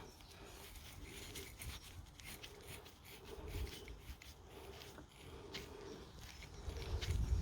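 Faint scattered clicks and rubbing from hands and tools working on parts in an engine bay.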